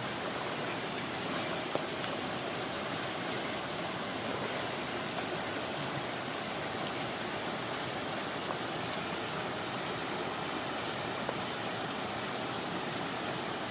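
Stream water rushing steadily, with a single faint click about two seconds in.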